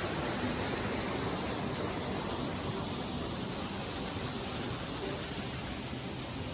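Steady rushing of water, an even hiss-like roar with no breaks.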